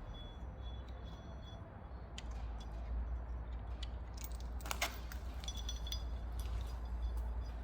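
Steady low workshop hum with a few light metallic clicks and clinks, the sharpest just before the middle and again near the end.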